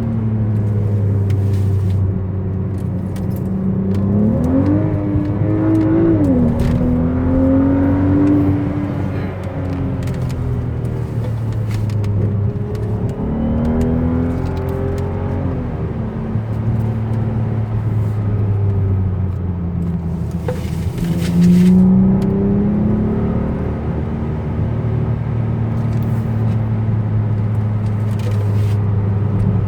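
BMW 335i's turbocharged straight-six running under way, its pitch climbing on acceleration and falling back several times, around five seconds in, near fourteen seconds and again near twenty-two seconds, with a steady low drone between.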